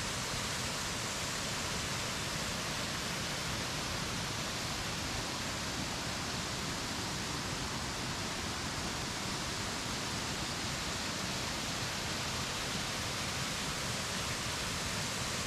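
Steady rush of flowing water from a small mountain river, an even hiss with no breaks or separate splashes.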